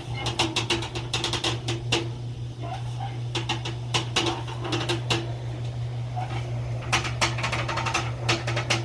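Quick clusters of sharp metallic clicks and knocks from work on metal gutters, over a steady low hum.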